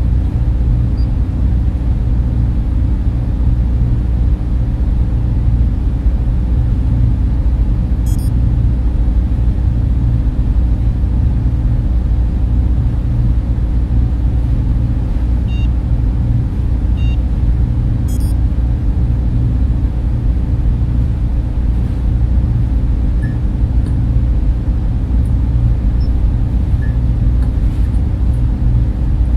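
Data-center server room hum: the steady drone of cooling fans and running equipment, a heavy low rumble with a fainter hiss above it. A few faint, short high ticks and tones come through over it.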